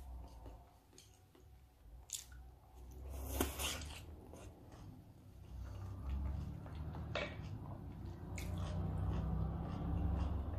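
A person chewing salmon sashimi up close, with soft mouth sounds and a few sharp clicks; the loudest click comes about three and a half seconds in.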